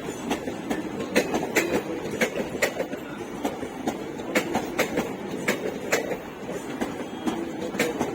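ICF passenger coaches' wheels clattering over rail joints: a running rumble broken by sharp clicks, about two a second, often in close pairs.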